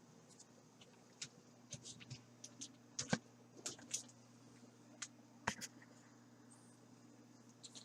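Scattered light clicks and taps of small plastic camera accessories and packaging being handled, the sharpest about three seconds in and again about five and a half seconds in, over a faint steady low hum.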